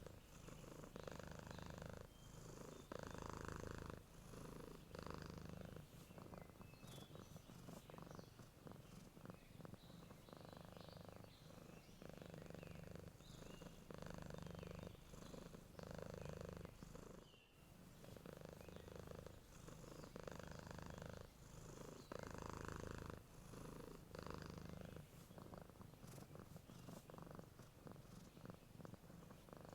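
Domestic cat purring steadily and close up. The purr swells and eases with each breath, about once every two seconds.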